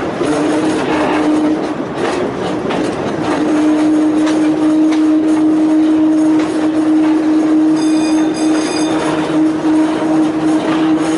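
A Volk's Electric Railway car running on its narrow-gauge line, with a steady electric hum and clicks of the wheels on the rails. About eight seconds in there is a brief high-pitched tone, twice in quick succession.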